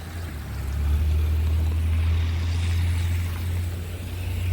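Low, steady engine rumble of a motor vehicle on the street, swelling about a second in and holding.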